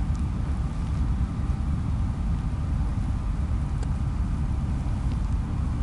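Steady low rumble of wind buffeting the microphone, uneven and gusty, with nothing else standing out.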